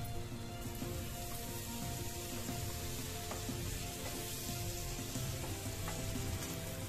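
Egg bread sizzling steadily as it fries in a nonstick pan, with a wooden spatula now and then scraping and pressing against the pan.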